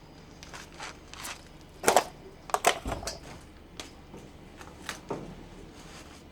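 Rustling and a series of sharp clicks and knocks from objects being handled and rummaged through, loudest about two seconds in.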